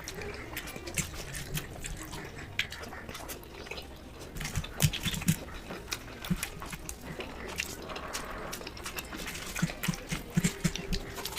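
Close-up eating sounds: wet chewing and lip smacking, with irregular clicks and a few soft knocks.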